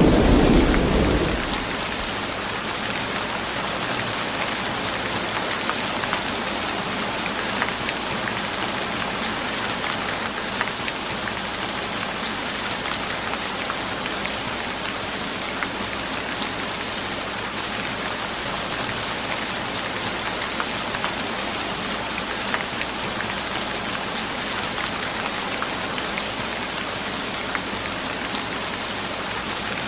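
Steady rain falling, an even hiss with scattered drop ticks. A deep rumble fades out in the first second or two.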